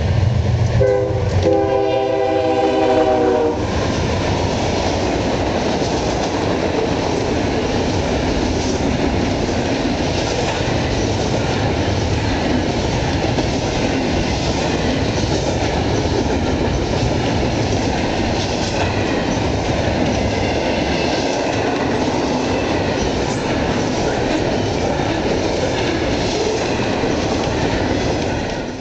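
Norfolk Southern freight train's lead locomotives passing close, horn blowing until about three and a half seconds in. Then a double-stack intermodal train rolls by with a steady noise of steel wheels on the rails.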